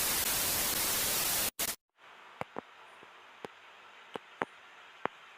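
Loud static-like hiss of white noise for about a second and a half, which cuts off suddenly. After that comes a faint steady hiss with scattered sharp clicks, several a second, at irregular intervals.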